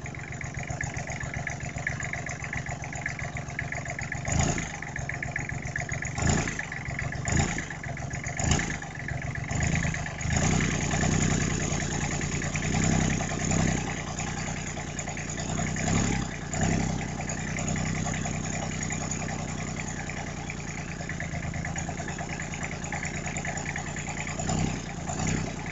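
Freshly rebuilt small diesel engine, with new pistons, a fresh injection pump and a new head, running steadily after warming up. A few short, sharper louder beats come in the first ten seconds, and the engine swells louder several times after that.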